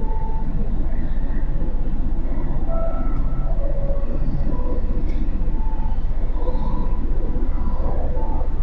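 Motorcycle riding on a city road: a steady, loud low rumble of engine and road noise, with short, faint high squeaks scattered through it.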